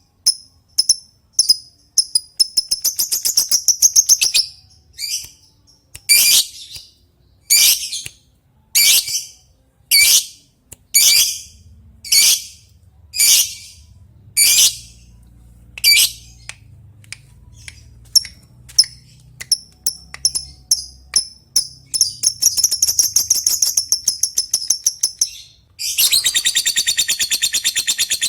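Lovebird calling: sharp, high chirps repeated about once a second, with runs of fast ticking chatter between them. Near the end it breaks into a long, rapid, unbroken chattering trill, the 'ngekek' of a singing-on (gacor) lovebird.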